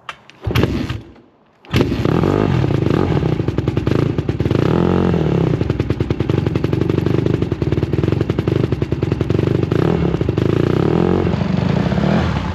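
Honda dirt bike engine starting: a short burst about half a second in, then it catches a little before two seconds in and keeps running steadily, with small rises and falls in engine speed.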